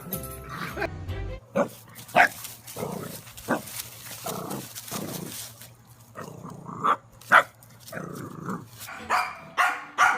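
A dog barking: a run of short, irregular barks, the loudest about seven seconds in.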